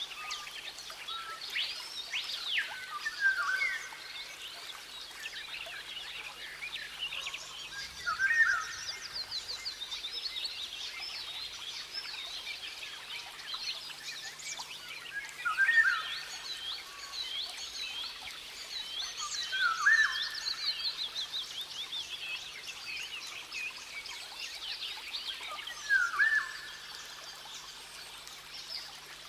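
Wild forest birds singing: many high chirps and trills, with a louder short rising call repeated five times several seconds apart.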